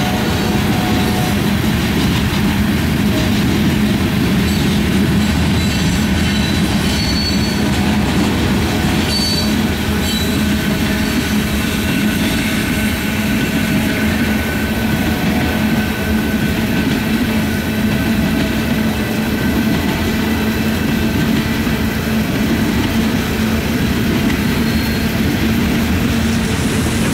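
Freight cars of a Norfolk Southern mixed freight train rolling past: a steady rumble and rattle of steel wheels on the rails, with faint thin wheel squeals now and then.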